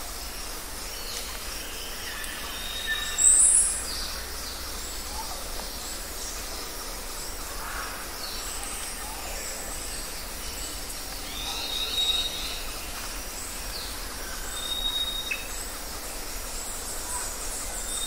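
Outdoor ambience of birds chirping and whistling in short high calls on and off, over a steady low rumble, with one louder high chirp about three seconds in.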